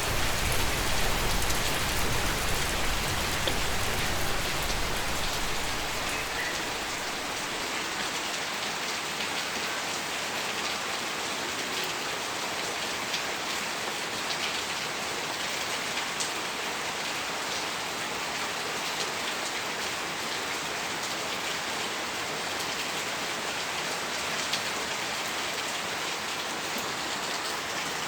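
Steady rain falling on a surface, an even hiss with scattered drop ticks. A low rumble underneath fades away over the first six seconds.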